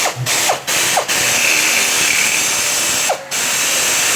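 Electric drill running in bursts while drilling into a seat-belt retractor part. It stops briefly several times, with a short falling whine as it winds down at each stop, and runs steadily for about two seconds in the middle.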